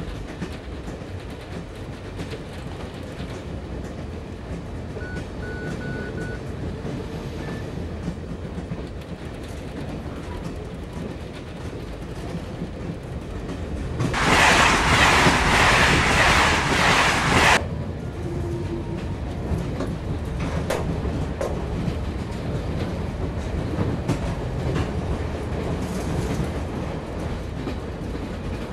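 A passenger train running, heard from inside the carriage: a steady rumble with the clickety-clack of the wheels over the rail joints. About fourteen seconds in, a loud rushing noise comes in for about three and a half seconds and cuts off suddenly.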